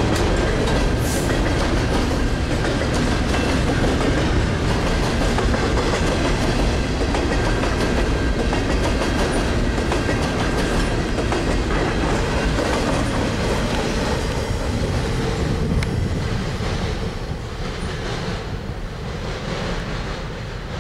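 Double-stack container train rolling past, its steel wheels running over the rails with a steady rumble and scattered clicks. The sound grows quieter over the last few seconds as the end of the train moves away.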